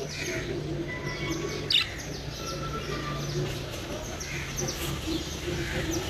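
Bird chirping: scattered short chirps and tweets, with one louder sweeping chirp a little under two seconds in.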